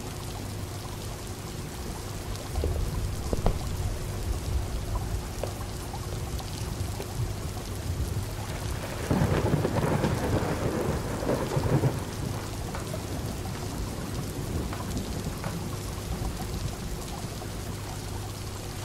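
Steady rain pattering, with a low rumble of thunder swelling about nine seconds in and fading after about three seconds, over a faint steady low hum.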